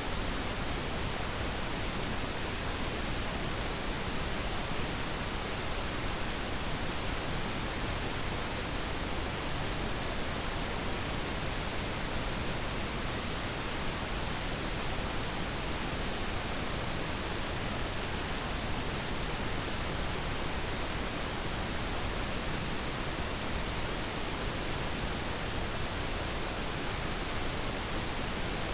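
Steady pink noise: an even, unbroken hiss with no changes.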